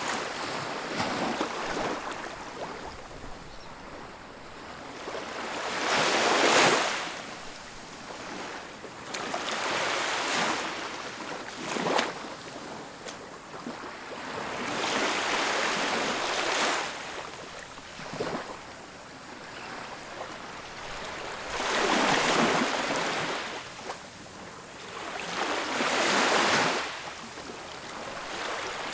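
Ocean waves breaking and washing up a beach, each surge of surf swelling and falling away every few seconds. The loudest break comes about six seconds in.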